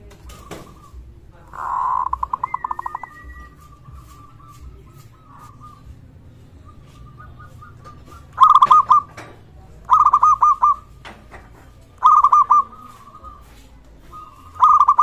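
Zebra dove (perkutut) singing: a rapidly pulsing, trilled coo about two seconds in, then four loud trilled coo phrases at roughly two-second intervals in the second half, with fainter cooing in between.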